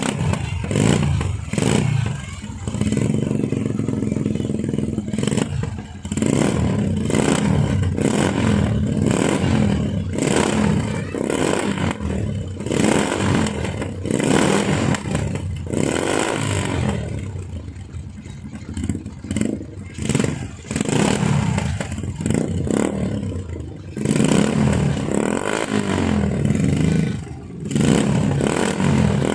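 Small motorcycle engines running through one shared exhaust, revved in repeated throttle blips, easing off for a few seconds around the middle before revving again.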